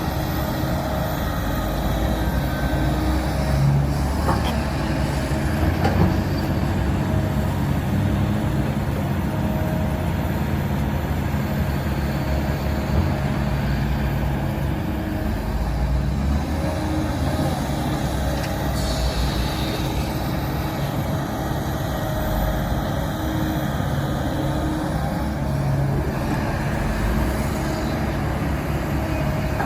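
Diesel engines of heavy earthmoving machines running steadily, with a couple of sharp metal clanks about four and six seconds in.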